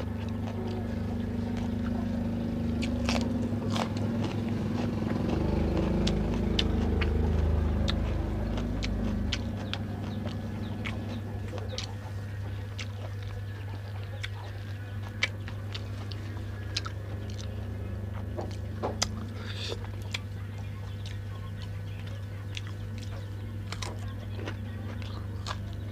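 A person chewing and crunching on wild duck and its bones, with many short sharp bite clicks. A low rumble swells and fades over the first ten seconds, and a steady low hum runs underneath.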